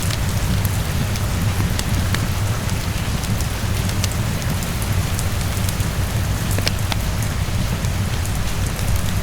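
Steady rain falling, with a constant low rumble underneath and scattered sharp pops and clicks of a crackling wood fire.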